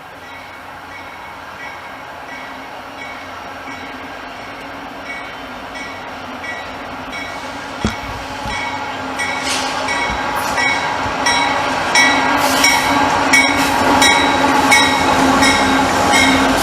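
Diesel freight train approaching and growing steadily louder, with a regular ringing tick about twice a second and sharp wheel clacks that start about halfway in and grow denser toward the end.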